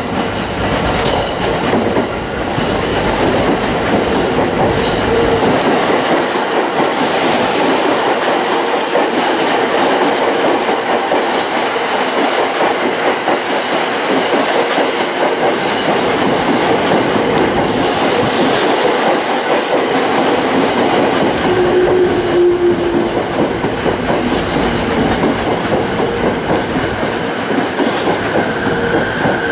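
A 15-car JR East electric commuter train pulling in alongside the platform: steady, loud running noise of wheels on rails. A brief squeal comes about 22 seconds in, and a whine starts near the end.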